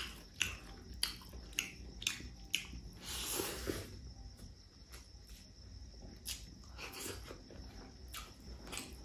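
Close-miked chewing of a mouthful of pork curry and rice, with sharp wet mouth smacks about one or two a second. A longer hissing stretch comes about three seconds in.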